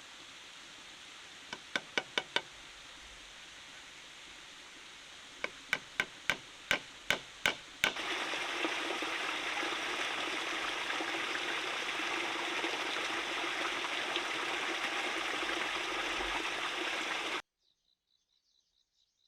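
Two quick runs of sharp knocks, about five and then about eight, over a faint steady hiss, followed by louder running water that cuts off suddenly near the end.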